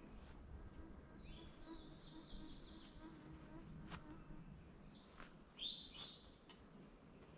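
Wild songbirds singing faintly in woodland: a quick trilled phrase in the first few seconds, then a louder, short slurred note about five and a half seconds in.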